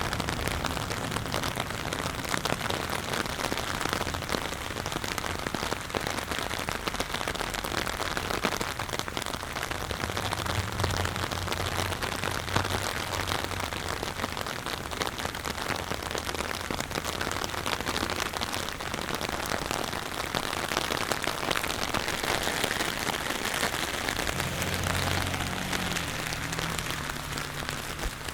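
Steady rain falling on hard surfaces, a dense patter of drops. A low rumble comes and goes about ten seconds in and again near the end.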